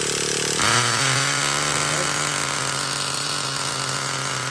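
Traxxas Revo 3.3's nitro engine being started and running, a steady buzzing drone that shifts to a new steady note about half a second in.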